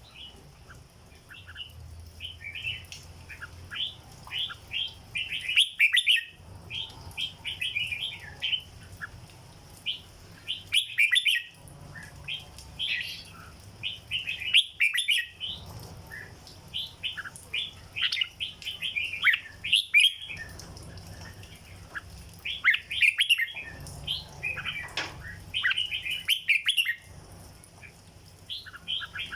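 Caged red-whiskered bulbul singing: bursts of quick, bright chirping phrases repeated again and again, with short pauses between bursts.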